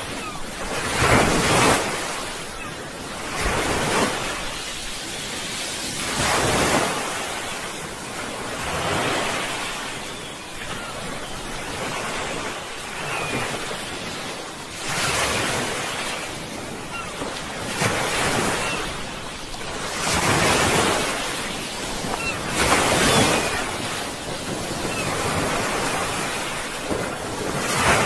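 Sea waves breaking and washing on a shore, a continuous rushing surf with a louder surge every two to three seconds.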